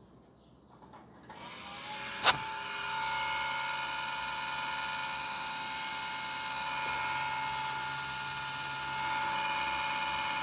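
A small electric motor spins up and then runs steadily with a high whine, with a sharp click as it comes up to speed.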